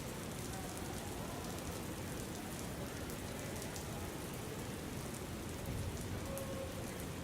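Steady rain ambience: an even hiss of rainfall with fine scattered patter of drops.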